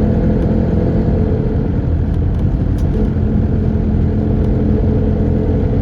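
Steady engine and road rumble of a car driving along, with a low constant drone.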